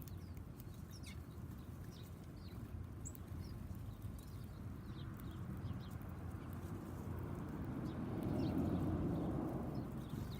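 Backyard songbirds chirping in short, scattered notes over a steady low background rumble, which swells louder about eight seconds in and then eases off.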